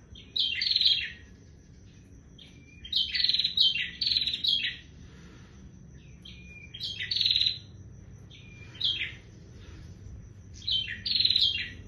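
Prinia (prenjak) singing: about five loud bursts of rapid, high chirping notes, each under a second long, with short pauses between them.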